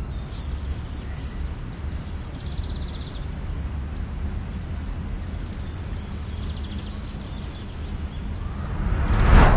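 Outdoor ambience: birds chirping over a steady low rumble of background noise. Near the end a rushing noise swells up and peaks just before it stops.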